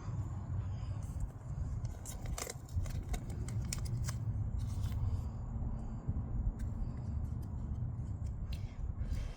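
Short scrapes and rustling clicks of close handling, many in quick succession, over a steady low rumble.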